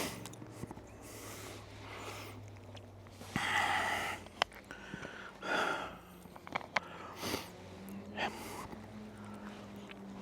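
A person eating from a dehydrated meal pouch: a few short bursts of breathing through the nose and chewing, with small sharp clicks in between.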